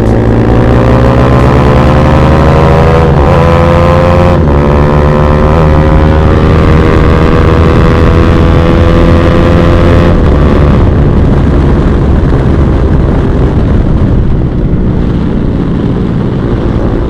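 Bajaj Pulsar NS200's single-cylinder engine through an Akrapovic exhaust, accelerating hard with two quick upshifts about three and four and a half seconds in. It climbs in pitch until about ten seconds in, then the throttle closes and the bike runs down off the throttle.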